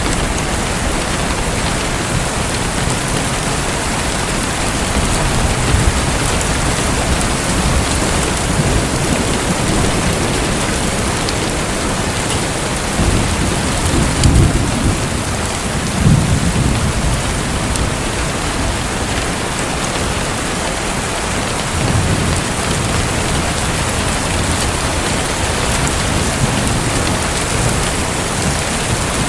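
Steady rain hissing, with low rumbles of thunder a little before halfway and once more later.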